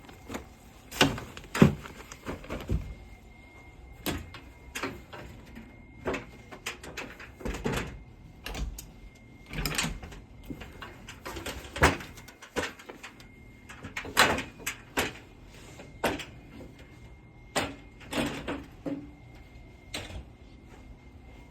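Doors and drawers being opened and shut one after another: a string of knocks, clicks and short sliding rubs.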